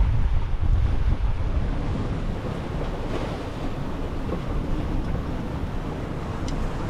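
Wind buffeting the microphone over the rush of water along a sailboat's hull under way, a little louder in the first couple of seconds.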